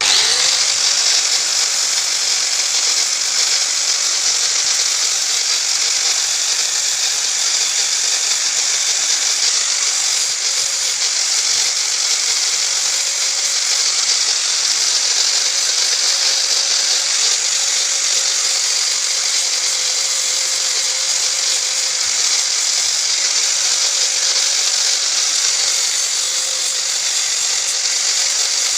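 Electric power tool switching on, winding up to speed, then running at a steady pitch with a strong high hiss.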